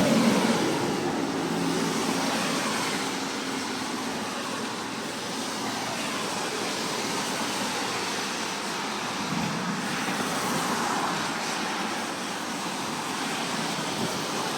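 Steady road traffic noise from passing cars, with a low steady hum in the first two seconds.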